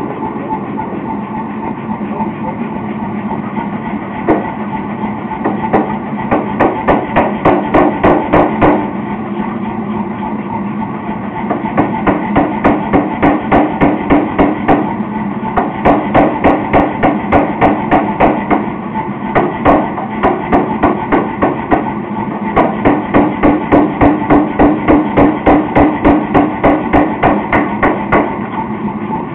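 Blacksmith's hammer striking steel on an anvil in three long runs of rapid, even blows, about four a second, each blow ringing, with short pauses between the runs.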